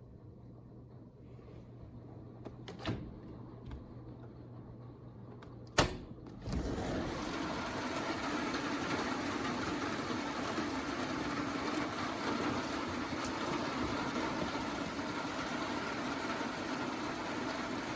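Steady rain falling on an Alumawood aluminum lattice patio cover, starting abruptly about six seconds in after a single sharp knock; before that, only faint hum and a few light ticks.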